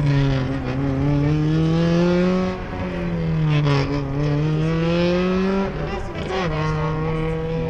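Racing Honda Civic EG6's 1.6-litre VTEC four-cylinder engine pulling hard as the car accelerates away, its note climbing and then dropping back sharply at two upshifts before holding steady near the end.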